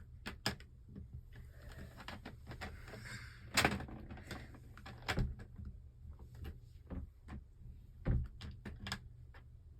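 Small plastic Lego pieces being handled: scattered clicks and taps with a few louder knocks, the loudest about three and a half seconds in, and a brief rustle of rummaging just before it.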